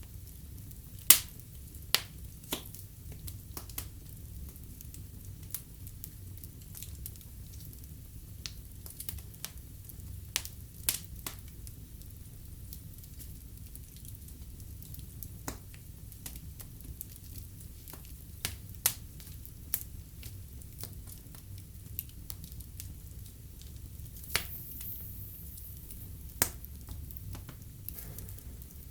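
Wood fire burning in a fireplace: a steady low rumble and hiss with irregular sharp crackles and pops, the loudest about a second in and a few more scattered through.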